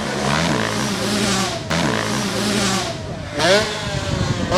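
Motocross bike engines revving up and down as they race, the pitch rising and falling with each throttle change, with abrupt cuts about a second and a half and three and a half seconds in.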